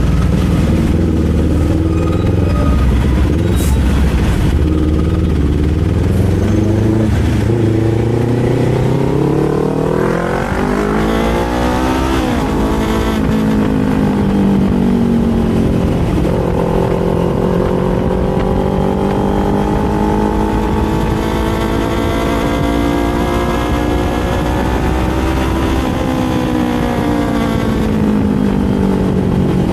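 Kawasaki Z400 parallel-twin motorcycle engine heard from the rider's seat, pulling up in revs with a quick drop in pitch at an upshift about a third of the way in. It then settles to a fairly steady pitch while cruising, with another brief dip and rise near the end.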